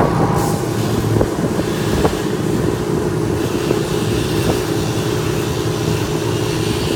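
A motor or engine running steadily with a low rumble, with a few short knocks over it.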